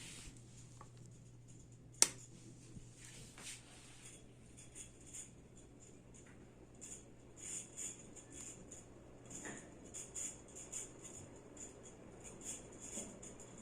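Primavera Tropical ceiling fan running with a steady low motor hum. There is one sharp click about two seconds in, and from about halfway on a light, rapid, irregular ticking sounds several times a second.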